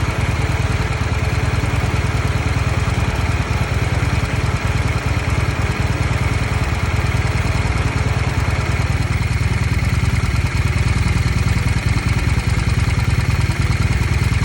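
Honda Steed 600 VLX's V-twin engine running steadily at an even, unchanging speed, with a low, regular pulse.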